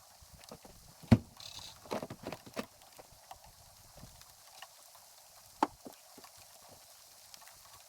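Irregular knocks, taps and clunks of camping gear being handled and packed up, with a sharp knock about a second in and another just past the middle.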